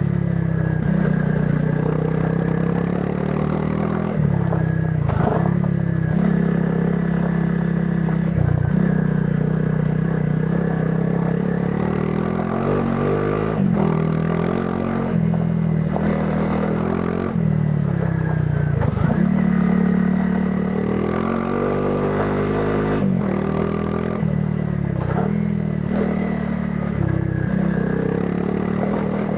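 Honda CRF300 Rally's single-cylinder four-stroke engine through its stock exhaust, on the move off-road: the revs rise and fall again and again with throttle changes and shifts, with occasional knocks and clatter from the rough ride.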